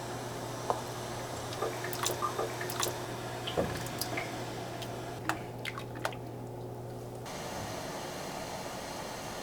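A scattering of small, sharp clicks and light taps, like utensils and dishes being handled in a kitchen, over a low steady hum that stops about seven seconds in.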